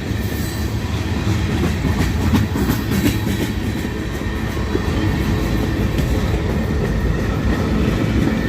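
Freight train cars rolling past: a steady rumble of steel wheels on rail, with a few sharp clicks about two to three seconds in.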